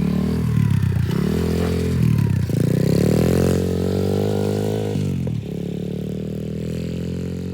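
Small semi-automatic dirt bike engine revving up and dropping back sharply three times as the rider shifts up through the gears without a clutch, then running at a steady lower note that slowly gets quieter.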